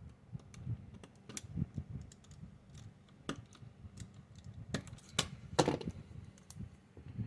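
Irregular small clicks and snaps from tiny stanchions being snapped off a scale-model part by hand, with soft handling noise; the sharpest snaps come about three seconds in and again around five seconds in.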